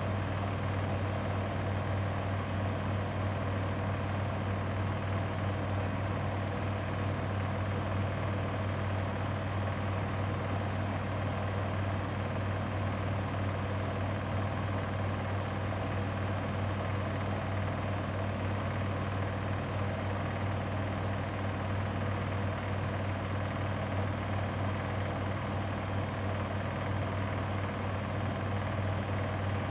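Grundig front-loading washing machine spinning at a steady high speed in its final spin, with an even motor hum and drum whir.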